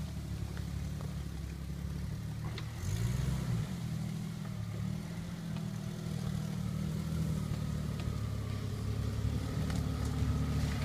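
A 1997 Jeep Grand Cherokee ZJ's engine running, its revs rising and falling briefly about three seconds in, then holding steady.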